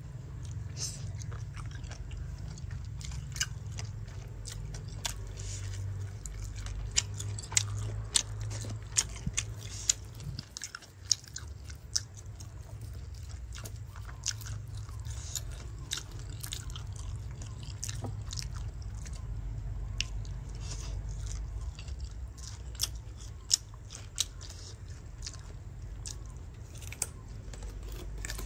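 A person chewing and crunching fried pig intestine and raw carrot slices close to the microphone, with irregular sharp crunches over a low steady hum.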